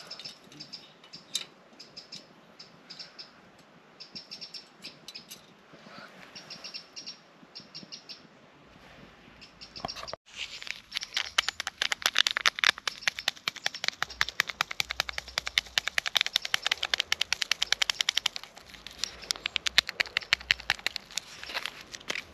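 Small birds chirping in short, repeated clusters. About ten seconds in, after a cut, a louder and denser run of rapid chirps and clicks takes over until near the end.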